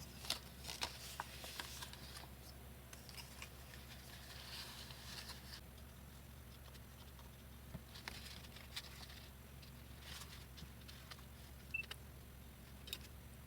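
Construction paper and card being handled: scattered light clicks and taps, with a few soft rustling, scraping passes, over a faint steady low hum.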